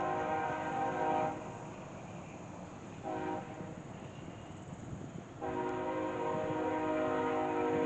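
Train horn sounding a chord of several notes: a long blast that ends about a second in, a short toot around three seconds, then another long blast starting about five and a half seconds in.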